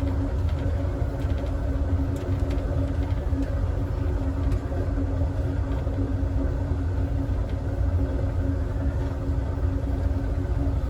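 Amtrak Southwest Chief passenger train running at speed, heard from its rear car: a steady low rumble of wheels on rail with a constant hum and a few faint clicks.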